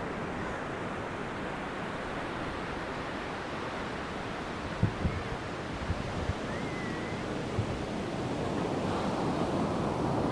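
Sea surf washing steadily onto a sandy beach, with a few short low thumps on the microphone about halfway through.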